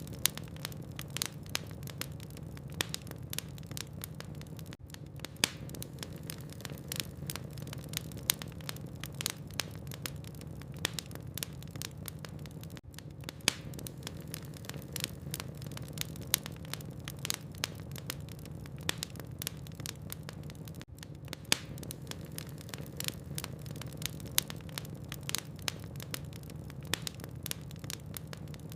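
Wood fire burning in a fireplace: many sharp crackles and pops at irregular moments over a steady low hum.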